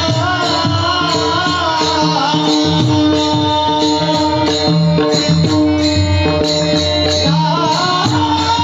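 A male devotional singer holds long, wavering notes at the start and again near the end. A mridang plays a steady rhythm of low strokes under a sustained drone.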